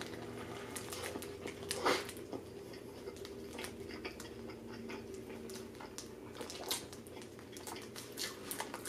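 Close-miked chewing of a mouthful of Burger King Whopper: a scatter of small mouth clicks, the loudest about two seconds in, over a steady low hum.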